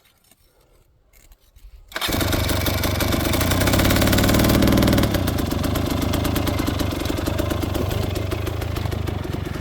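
Near silence, then a dirt bike engine comes in suddenly about two seconds in and runs loudly and steadily, peaking a couple of seconds later and then settling slightly lower.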